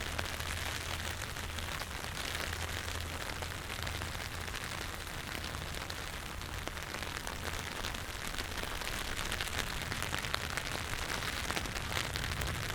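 Steady rain falling, with many separate close drops ticking over an even hiss and a low steady hum underneath.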